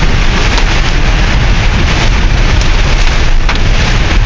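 Steady, loud rush of a car driving on a wet expressway in heavy rain: tyre spray, rain and wind noise, with a few faint sharp ticks of drops striking the car.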